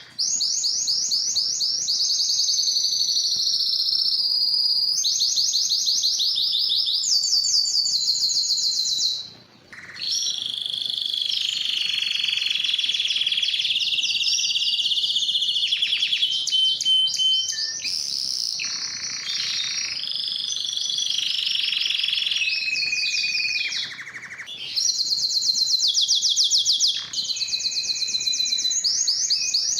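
Domestic canary singing a long song of rapid, high-pitched trills, each phrase a fast run of repeated notes that shifts in pitch from one phrase to the next. The song breaks briefly about nine and a half seconds in and again near twenty-four seconds.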